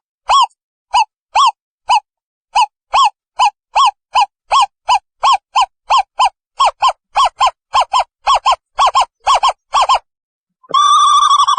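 Owl calling: a long series of short, arched hooting notes, about two a second at first and speeding up to about three a second. After a brief pause near the end it breaks into a continuous fast trill.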